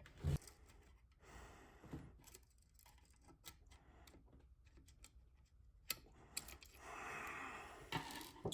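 Faint scattered clicks and taps of small metal tools and parts while valves and keepers are being fitted into a cylinder head with a valve spring compressor, with a breathy exhale about seven seconds in.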